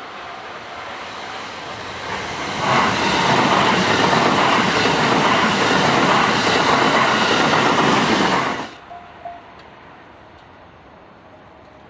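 JR West electric commuter train passing the level crossing at speed, wheels clattering over the rail joints, loud for about six seconds before it cuts off abruptly. At first the crossing's warning bell rings faintly.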